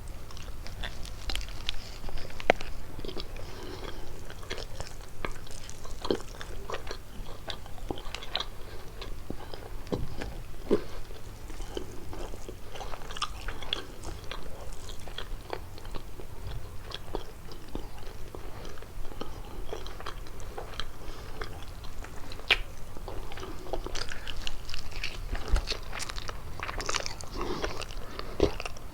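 A person biting and chewing kalaj, a pastry filled with walnuts or cheese, with many small sharp clicks of the bites and chews all through.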